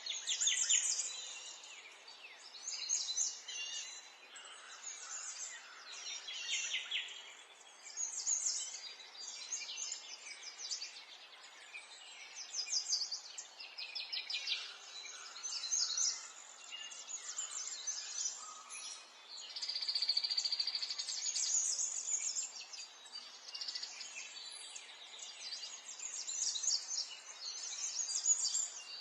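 Several small songbirds chirping and singing, with many overlapping short calls and quick trills throughout, and one longer, even trill about twenty seconds in, over a faint steady outdoor hiss.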